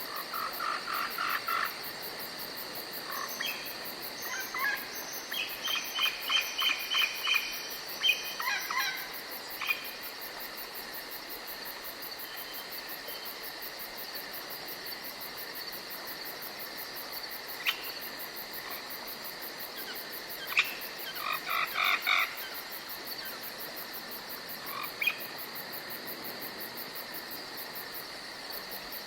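Forest night ambience: a steady high-pitched drone of crickets or other insects. Over it come two bursts of rapid, evenly repeated chirping calls, the first lasting several seconds from the start and the second about two-thirds of the way through, with a few single chirps between.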